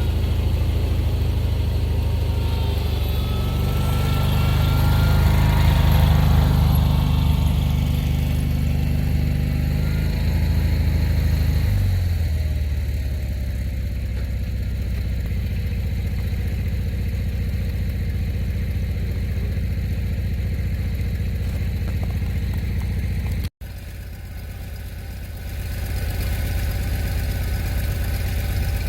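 Vehicle engine running hard at raised revs, then dropping back to a steady idle about twelve seconds in. There is a brief dropout in the sound a little past the three-quarter mark.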